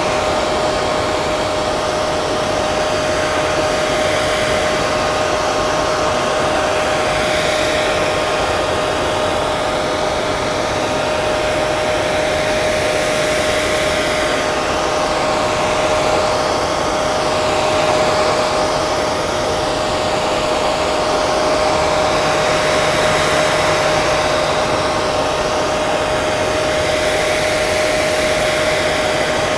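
Hair dryer running steadily, a loud even rush of air with a steady whine from its fan motor.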